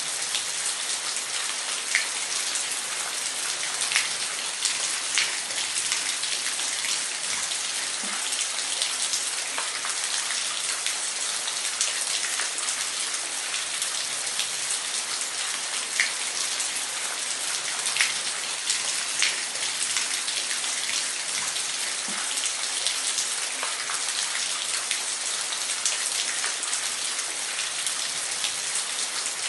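Waterfall: a steady rush of falling water, mostly high hiss, with many small splashing ticks scattered through it.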